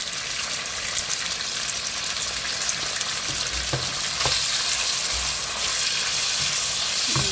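Chicken fillet pieces sizzling in olive oil in a frying pan: a steady hiss that grows a little louder about four seconds in, with a few light knocks against the pan.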